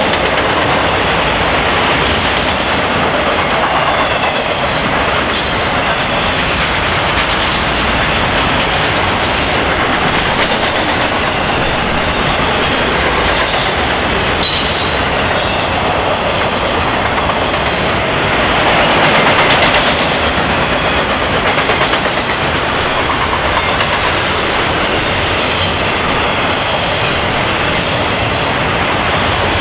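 Freight train of enclosed autorack cars rolling past close by: a steady rumble with the clatter of the wheels on the rails, swelling briefly about two-thirds of the way through.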